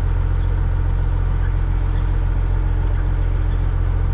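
Caterpillar 3406E inline-six diesel of a Freightliner FLD120 truck running steadily at low engine speed, a deep, even drone.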